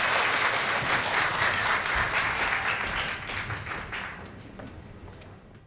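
Audience applauding in a concert hall, the clapping dying away to silence.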